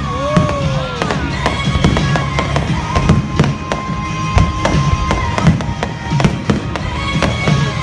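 Fireworks going off in many quick bangs and pops, over music with held notes.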